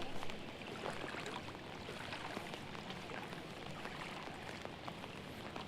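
Rain falling steadily: a patter of many small drop impacts over an even hiss.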